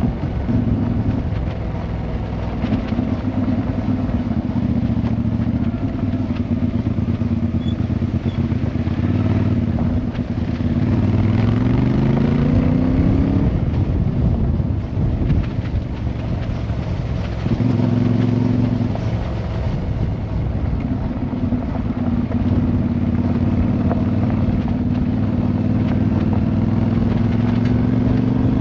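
Motorcycle engine running on the move. Its pitch rises as it accelerates about ten seconds in, falls away, then settles back to a steady note.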